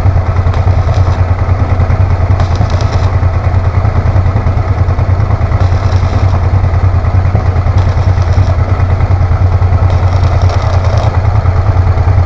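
Honda Transalp 650 V-twin engine idling steadily, with short hissing crackles coming and going several times over it.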